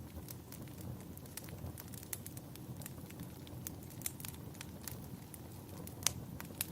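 Wood fire burning in a fireplace, crackling with many irregular sharp pops over a low rumble of flames; one louder pop near the end.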